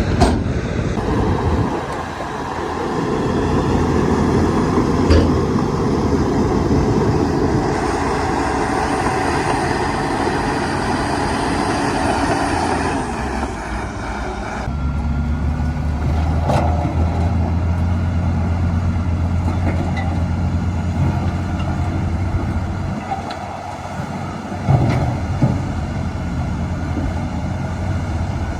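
Heavy diesel earthmoving machinery at work, a bulldozer with dump trucks: a loud mixed engine rumble with a rushing, scraping noise for the first half, then a steady deep engine drone from about halfway, with a few sharp knocks.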